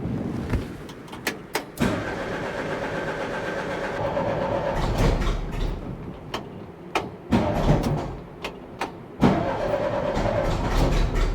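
Rebuilt air-cooled VW Bus flat-four being cranked on the starter in bursts, with several sharp pops in between; it doesn't catch and run. The owner puts the failure to start down to ignition timing set too far advanced.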